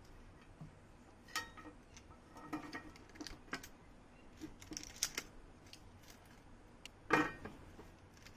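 Scattered light clicks and taps of small table fan parts being handled, with a louder knock about seven seconds in.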